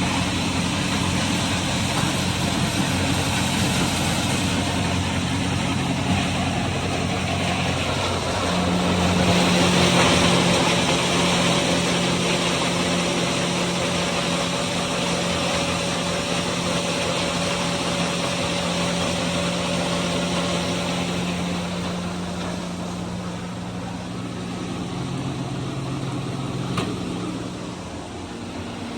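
Farm machinery running steadily: engines and a feed mill grinding ear corn. The engine note shifts and swells about a third of the way in.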